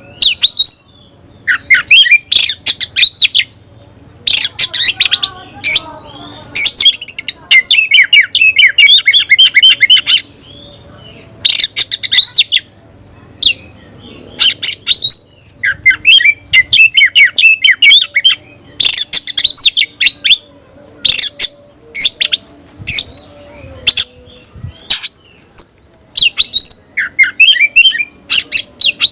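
Oriental magpie-robin (kacer) singing: loud, rapid phrases of sharp chirps, squawks and trills, one after another with short breaks between them.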